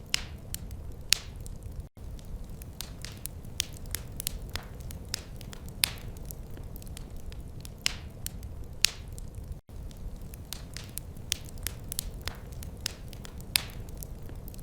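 Wood fire crackling in a fireplace: irregular sharp pops and snaps over a steady low rumble. The sound cuts out for an instant twice.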